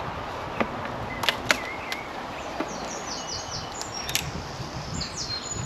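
Hive tool prying a honey super off the queen excluder of a polystyrene beehive: a few sharp clicks and cracks and short squeaky creaks, over a steady hum of bees.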